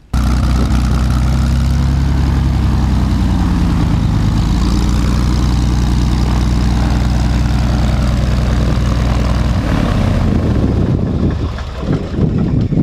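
Piper Lance's Lycoming six-cylinder engine and propeller running during an idle-speed adjustment. The engine note drops a few seconds in, holds steady, then falls away near the end as the engine slows.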